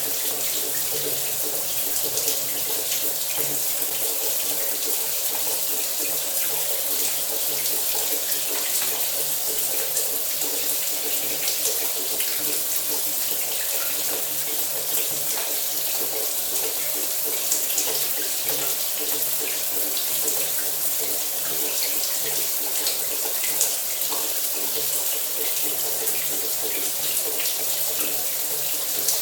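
Shower running: water spraying steadily from the shower head and spattering, a continuous even hiss with fine patter.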